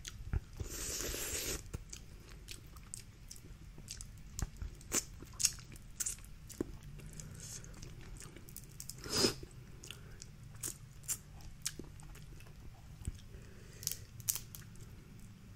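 Close-miked eating of snow crab legs: chewing with scattered sharp clicks and cracks of the shell, the loudest about nine seconds in.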